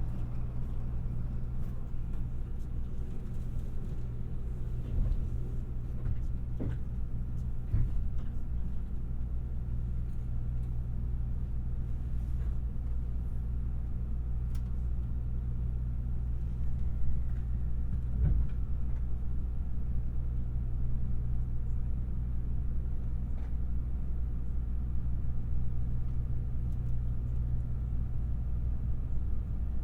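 Limited express electric train running at speed, heard from on board: a steady low rumble with a few steady low hums and occasional short sharp clicks.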